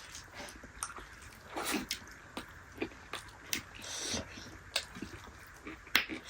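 Close-miked eating sounds of dal bhat with dried yak meat (sukuti): wet chewing and lip smacks with irregular sharp clicks, one sharper click near the end.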